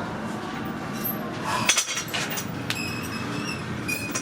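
Metal gym weights clinking and knocking a few times, the sharpest strikes just under two seconds in, over steady gym background noise.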